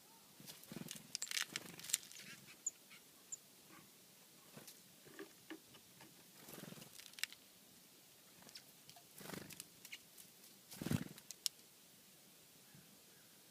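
Birds feeding on scattered birdseed close to the microphone: irregular pecking taps and scuffles, with a few short muffled calls.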